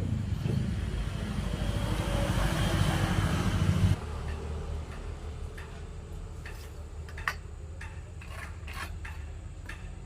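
A machine runs with an even rushing noise that grows louder, then cuts off sharply about four seconds in. After that, a low hum stays under scattered light taps and clicks, typical of hand work on wood.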